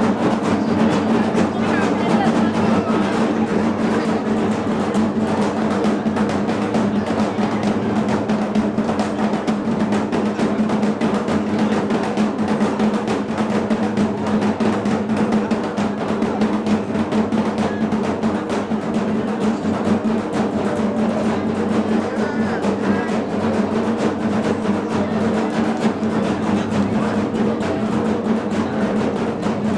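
Music with rapid, continuous drumming over a steady held low tone.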